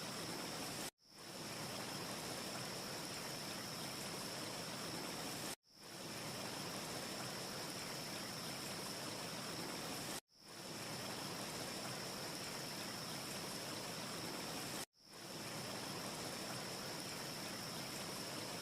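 Steady rushing wind ambience with a thin high hiss on top, no distinct crackles. It cuts out abruptly and fades back in four times, about every four and a half seconds: a short loop joined end to end.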